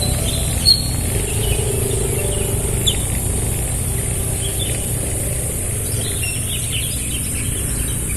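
Outdoor ambience with small birds chirping briefly here and there over a steady low rumble and a constant high hiss.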